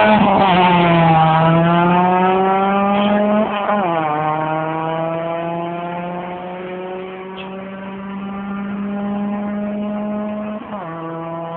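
A car accelerating hard and shifting up through the gears. The engine note climbs steadily in each gear and drops sharply at upshifts right at the start, about three and a half seconds in, and near the end, growing fainter as the car pulls away.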